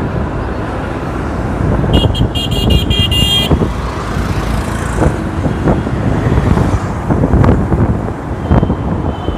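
City road traffic heard from a moving motorbike, a steady rumble of engines and road noise. About two seconds in, a vehicle horn gives a quick string of short, high-pitched beeps lasting about a second and a half, with one fainter beep near the end.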